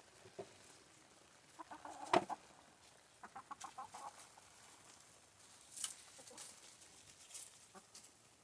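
Chickens clucking quietly as they feed, with a quick run of short clucks a few seconds in and several sharp taps mixed in.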